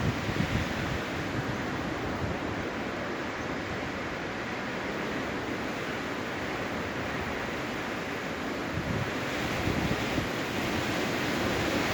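Storm-force wind blowing steadily, with gusts buffeting the microphone in low rumbles near the start and again from about nine seconds in, getting louder toward the end.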